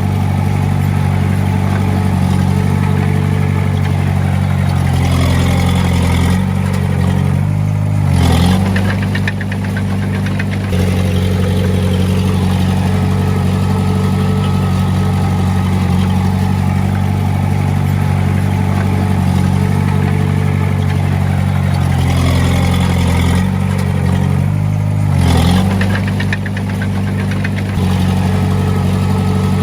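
Diesel engine of a Komatsu D20A small bulldozer running steadily at working revs. Its pitch shifts and briefly rises twice, about eight and twenty-five seconds in, as the revs change in a repeating work cycle.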